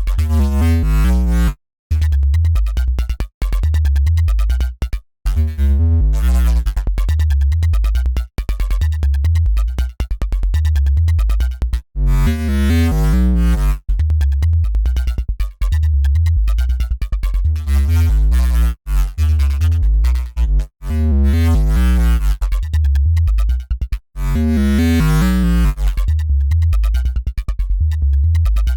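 Dirty FM synth bass riff from a Bitwig Polygrid patch playing in a loop: rapid repeated notes over heavy sub-bass. It cuts out briefly several times and starts again.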